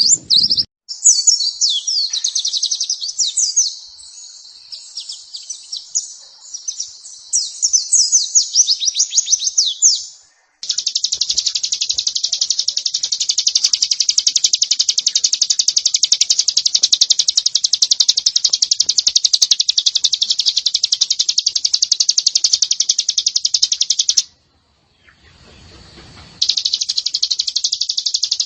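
Recorded oriental white-eye (pleci) song used as a training master: about ten seconds of quick, falling, sweeping high notes, then a long unbroken rapid high trill. The trill stops abruptly and starts again a couple of seconds later.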